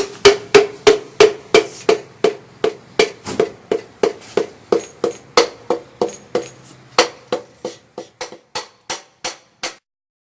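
Pistons being tapped down through a ring compressor into the cylinder bores of a 383 small-block Chevy, with repeated sharp hammer taps at about three a second. Each tap has a short metallic ring. The taps stop abruptly near the end.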